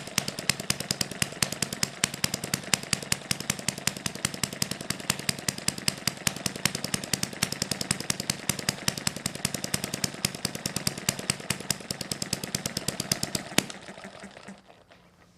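Small model four-stroke hit-and-miss engine running on Coleman naphtha camp fuel, just started: a rapid, even train of sharp exhaust pops over a low mechanical hum. It dies away near the end.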